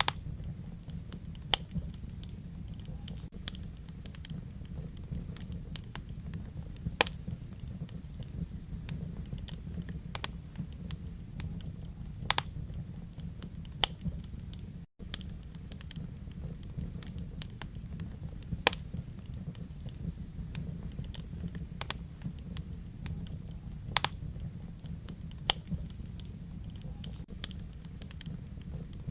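Wood fire in a fireplace crackling: irregular sharp pops and snaps, a few louder than the rest, over a steady low rumble of the flames. The sound cuts out for an instant about halfway.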